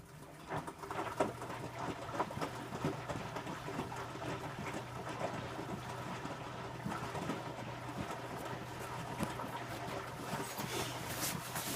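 Electrolux W455H commercial washing machine tumbling its drum in the wash: a steady motor hum sets in about a second in, under a continuous patter and slosh of wet laundry and water falling inside the drum.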